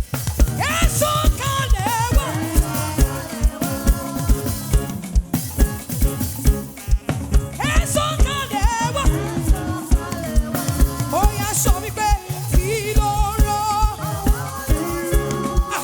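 Live praise band music in an African gospel style, with a steady kick drum beat about twice a second under bass and a wavering melodic lead.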